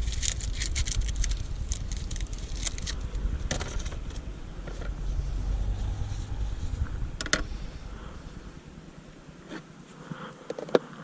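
A steady low rumble that cuts out about nine seconds in, with a few sharp clicks and light scrapes over it.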